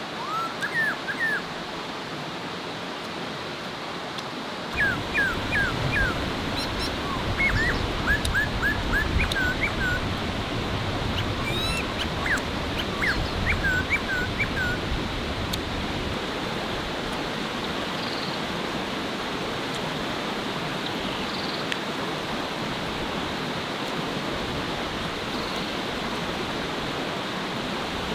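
A dog whimpering in runs of short, high, curling yips through the first half, over a steady rush of flowing water.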